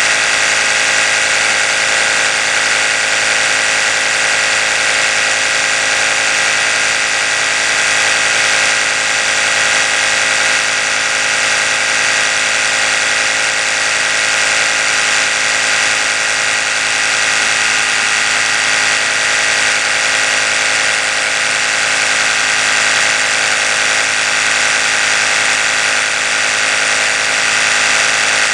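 Oral-B electric toothbrush running without pause: a steady, high-pitched motor buzz that holds an even pitch and level.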